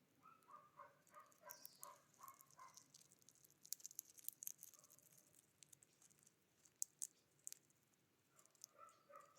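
Faint outdoor animal sounds: a quick run of short pitched calls for the first couple of seconds, and another starting near the end. Scattered sharp high ticks fall in between.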